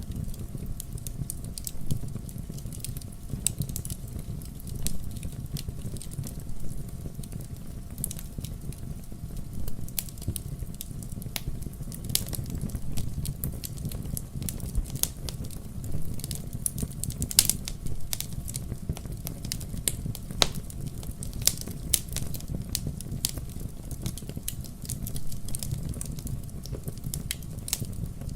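Wood fire burning in a fireplace: irregular sharp crackles and pops over a steady low rumble of the flames, with one louder pop a little past the middle.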